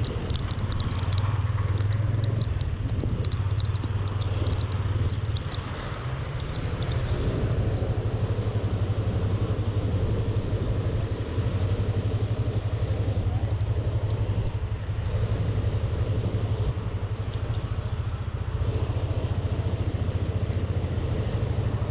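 Motor vehicle engine running steadily with a low, even hum, over road noise, with light high-pitched ticking through the first several seconds.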